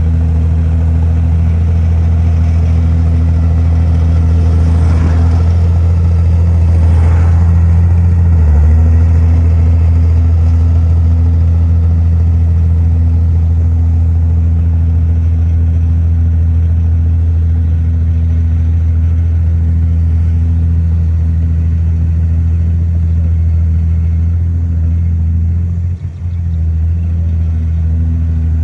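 Heavy diesel engine of earthmoving machinery running steadily under work. It shifts slightly in pitch about eight seconds in and dips briefly near the end.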